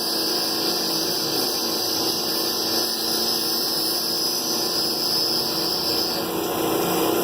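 Machine tool running steadily while machining a 3D-printed plastic sprocket, with a high steady whine over the motor noise that stops about six seconds in.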